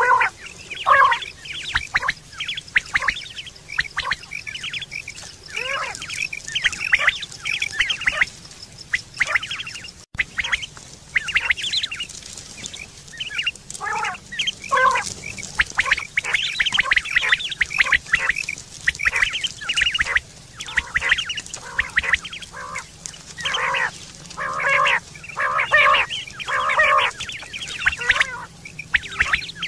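Common quail calling over and over, many short calls in quick, irregular succession, with a brief dropout about ten seconds in.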